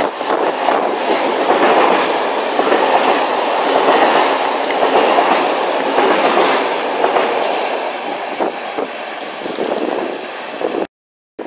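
Container freight train's wagons rolling past at close range: a steady rumble and clatter of wheels over the rails, with faint high squeals. It eases as the last wagons go by, then cuts off suddenly near the end.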